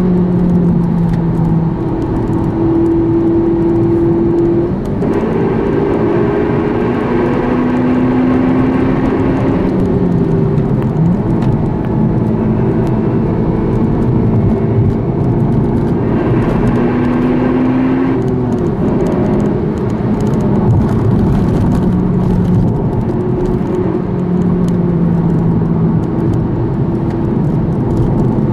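Honda Civic Type R's 2.0-litre four-cylinder VTEC engine, heard from inside the cabin, pulling hard through the gears over tyre and road noise. Its note climbs and then drops at each gear change, with two louder high-rev pulls, one about five seconds in and one about sixteen seconds in.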